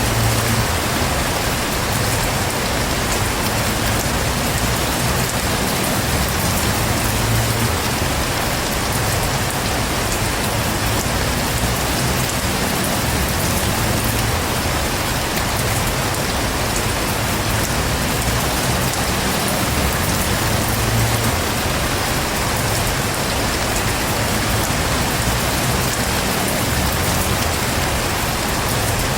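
Heavy rain falling steadily, a dense, even hiss of rain on surfaces with a low rumble underneath.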